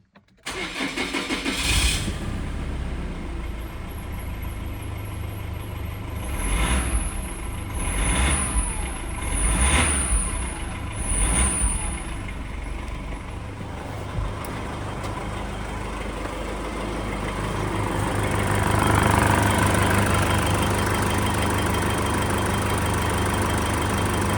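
Nissan YD25DDTi 2.5-litre four-cylinder turbodiesel starting up and idling. It is blipped four times in quick succession, each rev bringing a high turbo whistle, then it rises once more more slowly before settling back to a steady idle.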